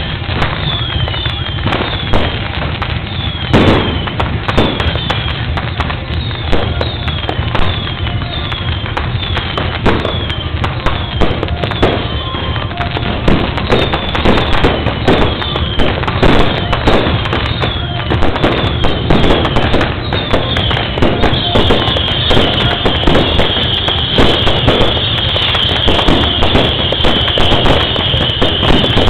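Firecrackers and fireworks going off in a rapid, continuous string of sharp bangs, with many short high whistles falling in pitch over them. In the last several seconds a steady high shrill whistle holds over the bangs.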